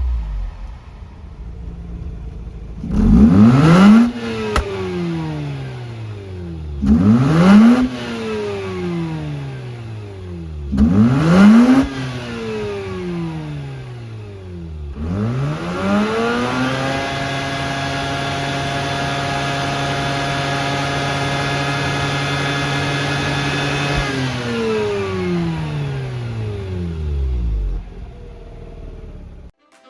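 Mazda RX-8's 13B-MSP twin-rotor rotary engine revved in three quick blips about four seconds apart, each climbing sharply and settling back toward idle. It is then held at steady higher revs for about seven seconds before dropping back to idle.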